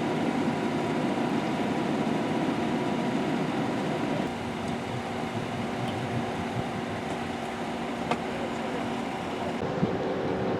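An engine or machine running steadily, with a held hum whose tone shifts slightly about four seconds in. There is a faint click near the end.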